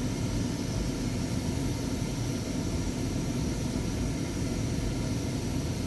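Automatic car wash running: a steady rushing noise of water sprays and wash machinery, with no breaks or separate knocks.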